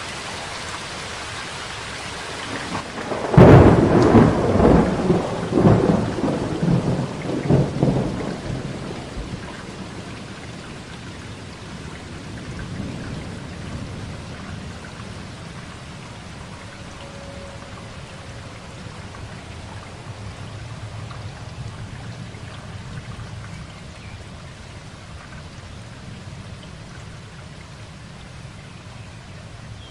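Steady rain falling, with a sudden loud thunderclap about three seconds in that rolls and rumbles for several seconds before fading back into the rain.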